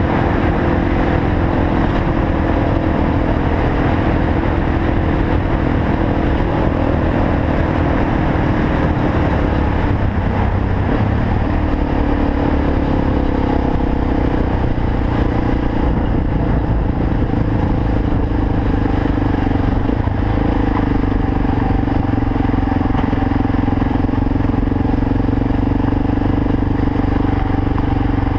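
Suzuki DR-Z400's single-cylinder four-stroke engine running at a steady throttle while the bike rides along a dirt track, heard from a helmet camera; the engine note dips and shifts briefly about ten seconds in, then holds steady again.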